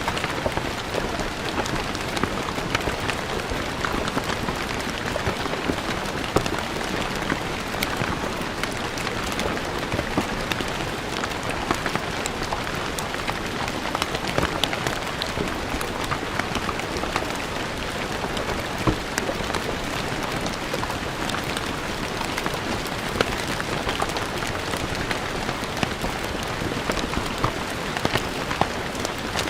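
Steady rain falling on stone paving, a dense patter with many sharp individual drop impacts.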